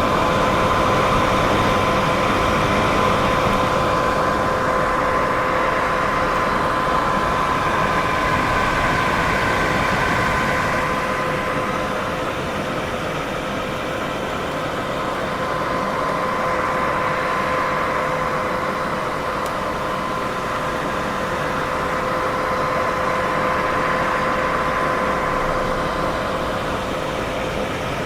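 Steady white noise for sleep masking: an even hiss with a faint steady hum at two pitches underneath, easing slightly in level midway and swelling back up.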